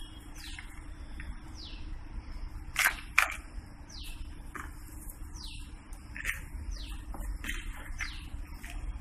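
A bird calling over and over with short high chirps, each sliding down in pitch, with a few sharp clicks and a steady low rumble underneath.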